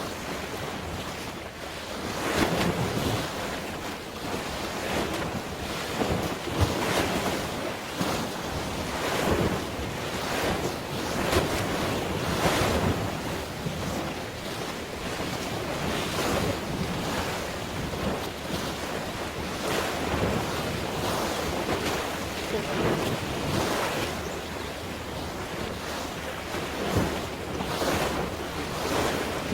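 Sea waves washing and splashing with wind buffeting the microphone, swelling and easing every second or two, with a few short knocks.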